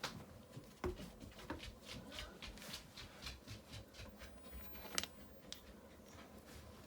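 Faint, irregular scrapes and clicks of river rocks and hand tools being handled while stones are set for a hearth base, with one sharper click about five seconds in.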